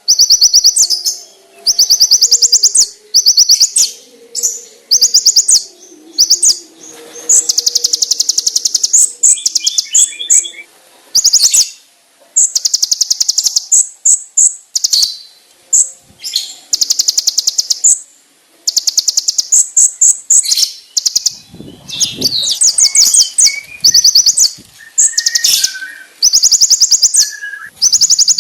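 Kolibri ninja (konin) sunbird singing: loud, rapid high-pitched trills in bursts of about a second, repeated with short pauses, with a few lower chirps mixed in.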